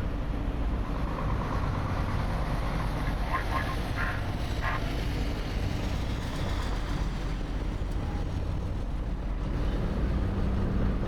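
Steady low drone of a running engine, with a few short high chirps about three to five seconds in.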